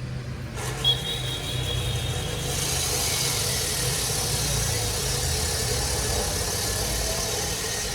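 An engine running steadily with a low rumble. There is a short knock about a second in, and a hiss joins it after about two and a half seconds.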